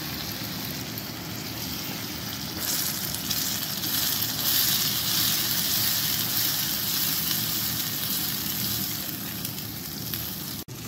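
Tomatoes frying in hot oil with onion and ginger-garlic paste in a pan: a steady sizzle that grows louder about two and a half seconds in, with a momentary break near the end.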